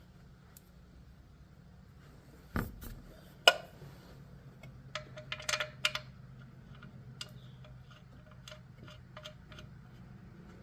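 Metal hand tools and parts clinking and clicking: a thump, then a sharp loud clink, a quick run of clicks and a few lighter scattered ticks.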